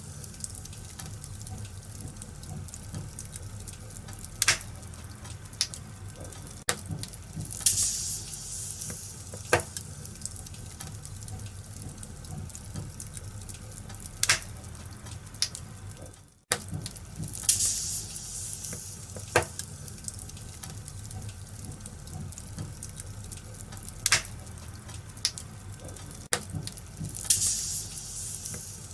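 Wood fire burning in a fireplace: a steady hiss with sharp crackles and pops every few seconds. The sound cuts out for a split second about halfway through.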